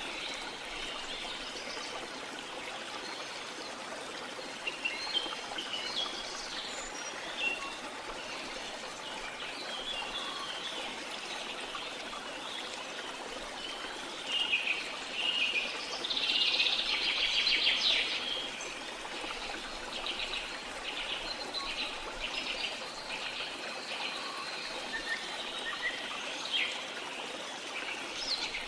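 Running water from a stream flowing steadily under many birds chirping and calling. About sixteen seconds in, one bird gives a louder, fast trill lasting about two seconds.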